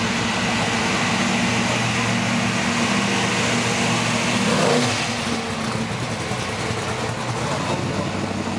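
A car engine and exhaust running as the car drives slowly past. It is loudest about halfway through, then fades as the car pulls away.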